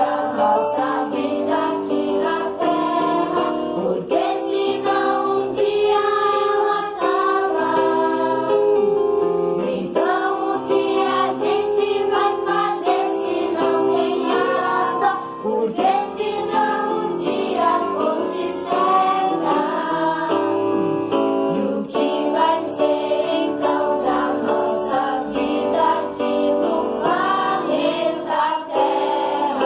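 A song: singing voices over instrumental accompaniment, continuing without a break.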